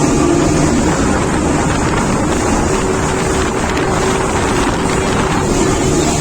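A steady engine drone buried in heavy wind noise on the microphone.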